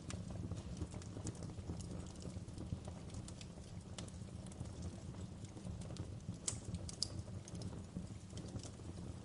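Wood fire crackling in a fireplace: irregular sharp pops and snaps over a steady low rumble of burning, with a couple of louder pops a little past the middle.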